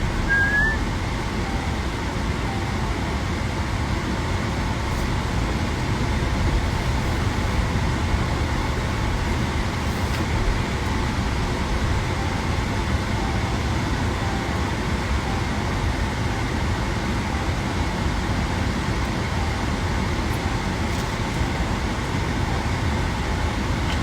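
Steady low rumble of vehicle noise, as of a car on the road, with a short rising squeak about half a second in.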